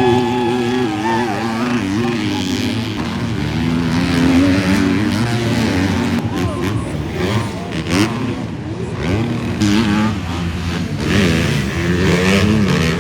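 Several motocross bikes racing past, their engines revving up and down and overlapping.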